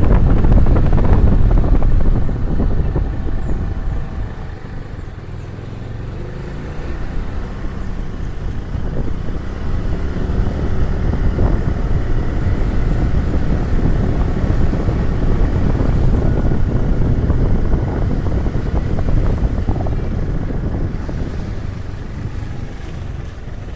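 Motorbike engine running while riding, with wind buffeting the microphone. It eases off around four seconds in and picks up again a few seconds later, with gliding pitch as the engine revs.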